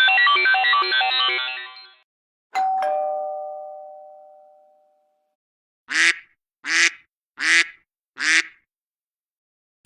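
iPhone ringtone and alert tones playing one after another. An electronic ringtone melody fades out, then a single two-note chime rings and fades over a couple of seconds, then four short duck quacks come about three-quarters of a second apart.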